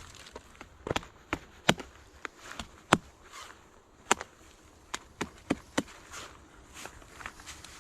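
Wood being chopped by hand: a series of irregular sharp knocks and cracks, about a dozen strikes, the loudest about three seconds in.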